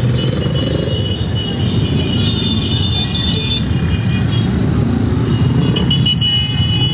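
Many motorcycle engines running together in a steady din as a large group rides, with horns tooting now and then over it.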